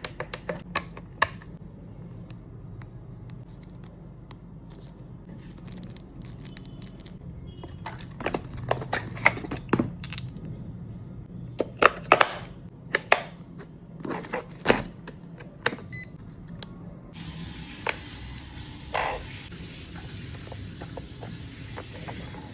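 Irregular sharp clicks and clattering knocks, thickest in the middle, over a low steady hum.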